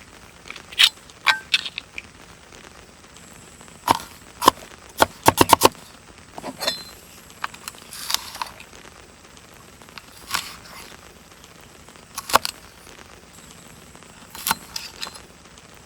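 Sharp clicks, taps and knocks of hard objects being handled, scattered irregularly, with a quick run of about six rapid clicks a little after five seconds in; a few of the knocks ring briefly.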